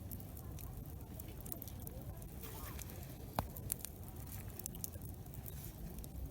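Wood campfire crackling with scattered sharp pops, one louder pop about halfway through, over a low murmur of campers' voices in the background.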